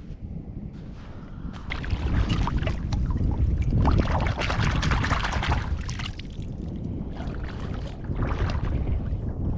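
Wind buffeting the microphone with a steady low rumble over the rush of waves washing on the shore, which swells louder from about two to six seconds in and again near the end.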